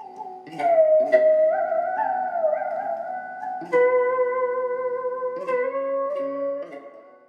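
Bluegrass music: a melody line of held, sliding notes over plucked string accompaniment, fading out near the end.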